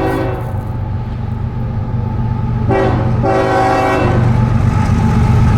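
Train horn sounding twice: one blast at the very start, a second longer one about three seconds in, over the train's steady low rumble, which grows a little louder.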